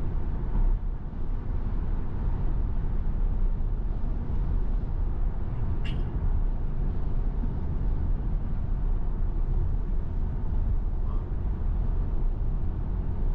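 Tesla Model Y driving at highway speed in heavy rain: a steady rumble and hiss of tyres on the wet road and rain on the car, with one short click about six seconds in.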